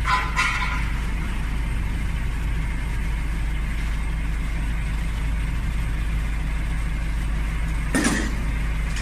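Vehicle engine idling steadily, with a brief knock right at the start and a sharp knock about eight seconds in.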